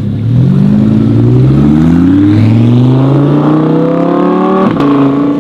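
Car engine accelerating hard through the gears, its pitch climbing and falling back at each upshift, with a sharp crack near the end.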